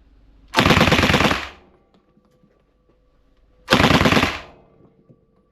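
9mm Uzi submachine gun firing two short full-auto bursts about three seconds apart, each lasting under a second, with a brief echo after each.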